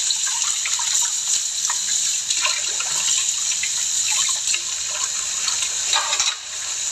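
Water running steadily from a tap, a continuous hiss, with small clicks and knocks scattered through it and a brief drop near the end.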